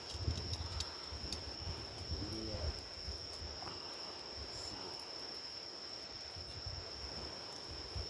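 An insect trilling steadily on one high, unbroken note, over the scattered small pops and crackles of a wood campfire and a low rumble.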